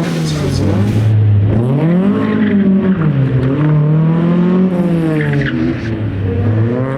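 Rally car engine revving up and dropping back repeatedly as the car is driven hard: the engine note climbs about two seconds in, falls near three seconds, climbs again, and drops back about six seconds in.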